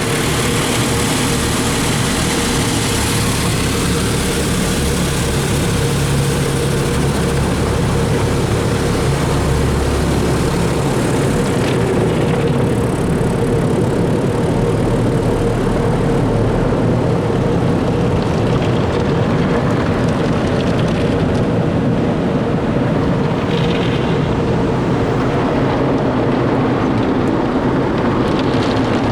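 Automatic tunnel car wash running around the car, heard from inside the cabin: a loud, steady rushing noise with a constant hum. The high hiss of spray thins out about twelve seconds in.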